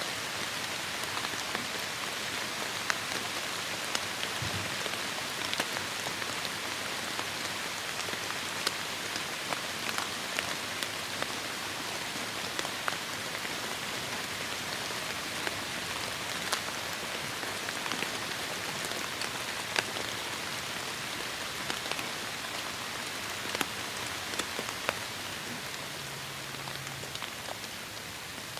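Steady heavy rain hissing down, with many sharp individual drops ticking close by; it eases slightly near the end.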